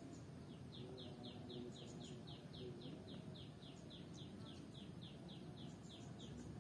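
A bird calling a fast, even series of short descending notes, about four a second. The series starts about half a second in and stops shortly before the end, over a faint low background rumble.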